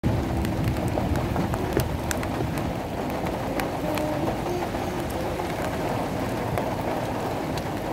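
Rain falling steadily, with scattered sharp ticks of single drops.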